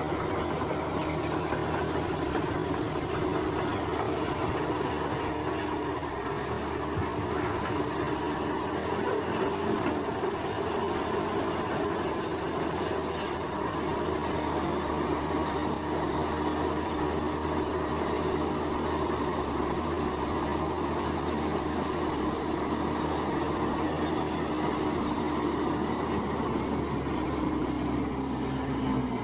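Bulldozer's diesel engine running steadily under work, with continuous mechanical clatter and a faint high chirping over it.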